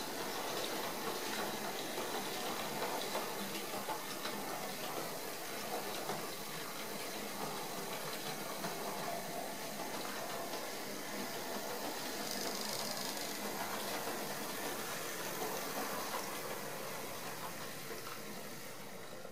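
Fleischmann Magic Train model locomotives running, their small electric motors whirring with a steady rattle of wheels on the track.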